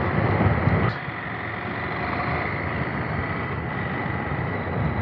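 Motorcycle engine running while riding, heard through wind and road noise. The low engine sound is louder for the first second, then drops and settles to a steadier level.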